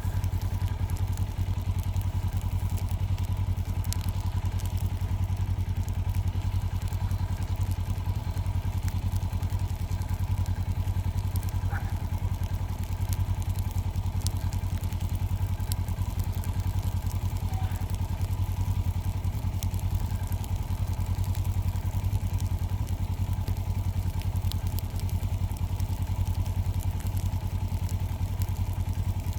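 Farm buggy's engine running steadily at an even, low pitch, with no change in speed.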